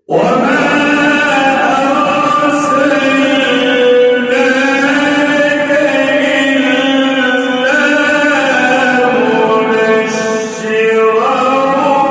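A male reciter chanting the Quran in the melodic tajweed style: long held, ornamented notes that bend up and down in pitch. The voice comes in suddenly after a silence and dips briefly near the end before rising again.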